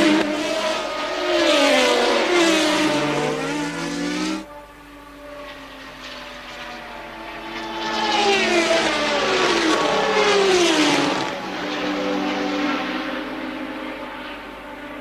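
Early-1980s Formula One cars at racing speed, their engine notes swooping up and down in pitch through gear changes as they pass. The sound cuts abruptly to a quieter level about four seconds in. Another car passes loudly from about eight to eleven seconds, its pitch falling away as it goes by.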